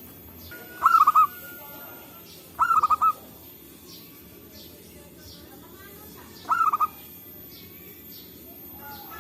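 Zebra dove (perkutut) cooing: three short calls a few seconds apart, each a quick run of about four trilled coos, over faint chirps of other birds and a low hiss.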